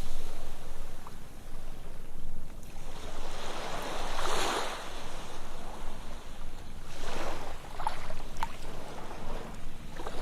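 Ocean waves breaking and washing on a beach, swelling about every three seconds, with a few small splashes and clicks.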